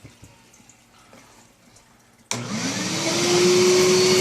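Old Hyla water-filter vacuum cleaner switched on a little over two seconds in: the motor whine rises as it spins up, then runs steadily at full speed.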